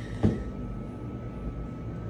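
A single sharp click, then a steady low background hum with a faint high whine.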